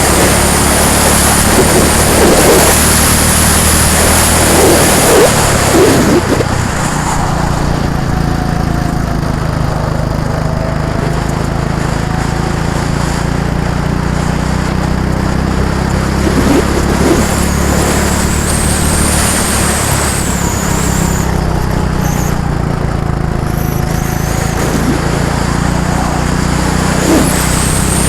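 Several go-kart engines running around a circuit, loudest in the first six seconds, then a steady lower drone as karts circle, with engine whines rising again as karts pass about two-thirds of the way through and near the end.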